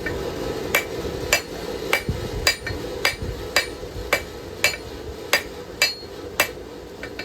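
Hand hammer striking hot knife steel on an anvil, forging the blade's edge bevel: about a dozen sharp blows at roughly two a second that stop about six and a half seconds in. A steady low roar runs underneath.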